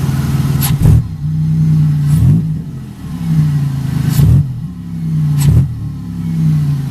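Car engine running with the throttle blipped four times, each a short jump in revs about every second and a half. The engine is being revved while the owner checks for a bad bushing and worn motor mounts.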